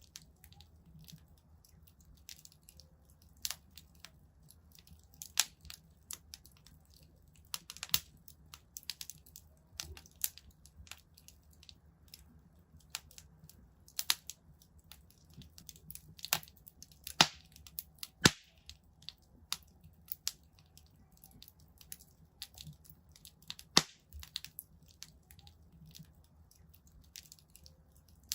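Wood fire burning in a fireplace: irregular crackles and sharp pops from the burning logs, a few louder snaps among them, over a faint low rumble of the flames.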